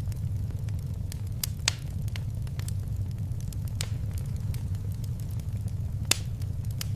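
Wood fire crackling in a fireplace: scattered sharp pops over a steady low rumble of the flames, with the loudest pops about a quarter of the way in and near the end.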